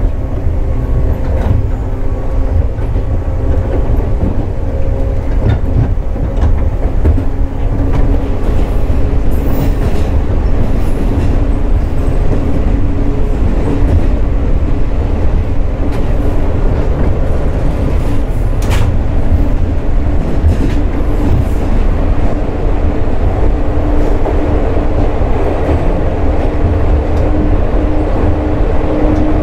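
JR 415 series 100-subseries electric multiple unit running, heard on board: a steady rumble of wheels on rail with a motor and gear hum that rises slowly in pitch, and scattered clicks from rail joints.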